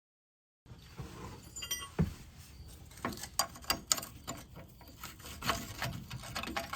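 Metal clinks and knocks of hand tools and suspension parts being handled while the upper control arm is freed from the truck: scattered sharp clicks, a quick cluster of them in the middle, and a few louder knocks.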